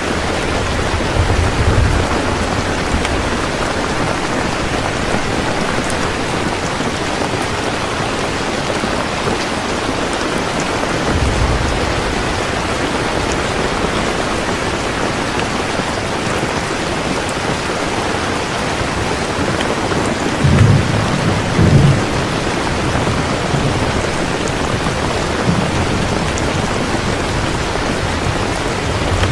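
Heavy rain falling steadily, with rolls of thunder rumbling low underneath, the loudest about two thirds of the way in and another starting at the very end.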